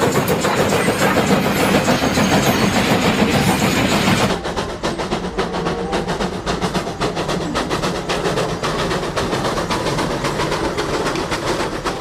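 Train running with rapid clickety-clack. About four seconds in it drops in level and loses its hiss.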